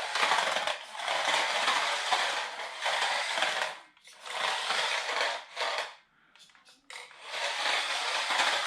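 A 1/28-scale RC drift car's small brushed motor and gears running while its hard tyres scrub over a flat hard floor, in bursts with short pauses where the car stops.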